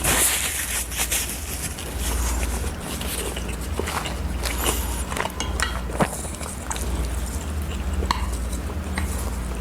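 Close-miked eating: chewing and mouth sounds with scattered sharp clicks and smacks, over a steady low hum.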